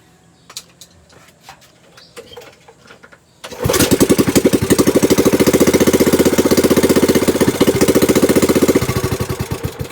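A small Honda-type gasoline boat engine catches suddenly a few seconds in, runs fast and even for about five seconds, then fades and dies. The owner says it dies when the choke is opened because it has no fuel tank, only the fuel left in its new carburetor.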